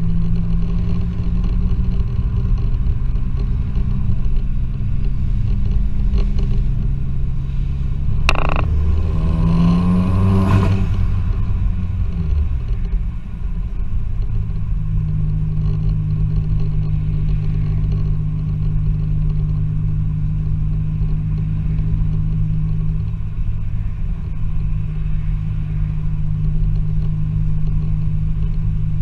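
Turbocharged 2.0-litre four-cylinder Vauxhall Z20LET engine of a remapped Astra van driving, heard from inside the cabin as a steady drone with road rumble. About eight seconds in it rises quickly in pitch with a hiss that cuts off sharply near eleven seconds, then settles back to a steady cruise.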